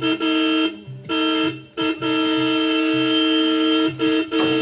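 A vehicle horn honking: a few short blasts, then a long held blast from about two seconds in, broken briefly near the end.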